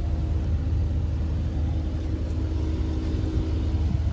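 Steady low hum of the car heard inside the cabin, typical of the 5.5-litre twin-turbo V8 idling, with a faint whine that fades out near the end.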